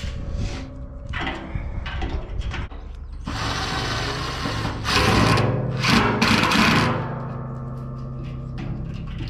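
Power drill driving screws into the steel drum of a barrel-stove kit, run in short bursts with a longer run about three seconds in.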